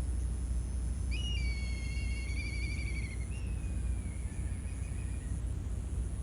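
A bird calling over a steady low rumble. About a second in it gives one long whistled note that wavers near its end, followed by a lower note that falls slowly away.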